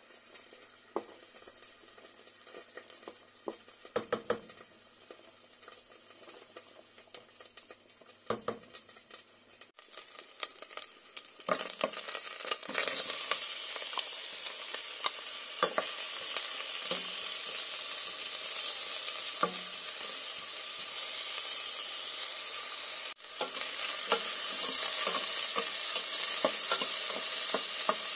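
Chopped onion and garlic sizzling in hot olive oil in a stainless-steel pot, stirred with a wooden spoon. The first ten seconds are quieter, with a few scattered knocks; then the sizzling starts and grows louder near the end, with spoon clicks over it.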